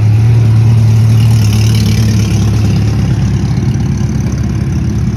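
Race car engine idling loudly and steadily close by, its note growing rougher and less even about two seconds in.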